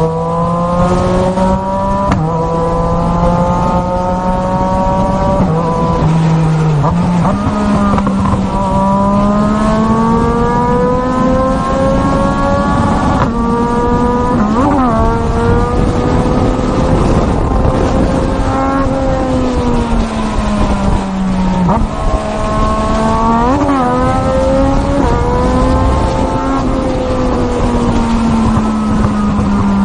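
Racing motorcycle engine at high revs, its note rising and falling slowly over several seconds as the throttle is worked, with two quick pitch flicks about halfway and two-thirds through.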